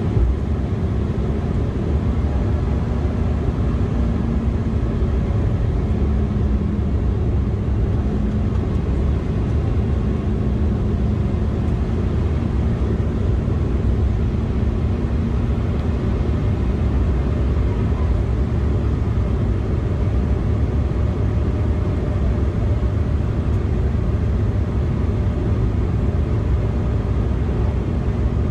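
Steady low rumble inside the cabin of an Embraer E175 airliner in flight: the rush of air over the fuselage and the drone of its turbofan engines. A faint steady hum sits in the rumble for the first half.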